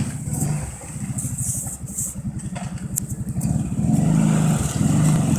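Quad (ATV) engine running at low revs with a quick, even exhaust pulse, getting louder about four seconds in as the revs pick up.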